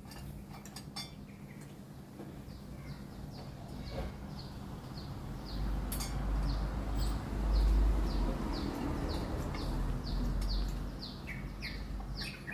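A bird chirping over and over, short falling chirps about two a second, over a low rumble.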